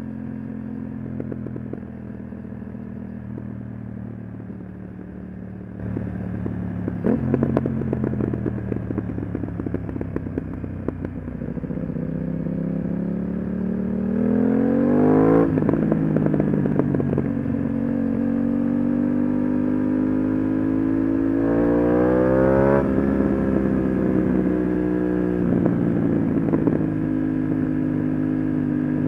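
Aprilia RS 660 parallel-twin engine through an SC-Project SC1-R exhaust, riding: it runs steadily, then revs up twice, each time the pitch dropping suddenly on a quickshifted upshift. Crackles and pops from the exhaust come off-throttle.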